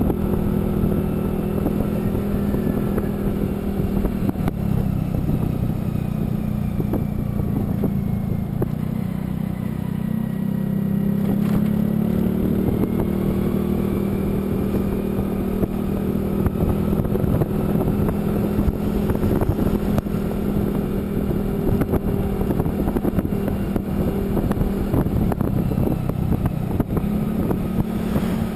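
A vehicle engine running steadily while travelling along a road, with road and wind noise. Its note drops about four seconds in, climbs again around twelve seconds, and steps back up near the end.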